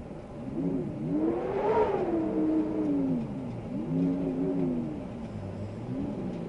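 Wind howling in gusts: a moaning tone that rises and falls in pitch over a rush of air. It swells loudest about two seconds in, then dips and swells again.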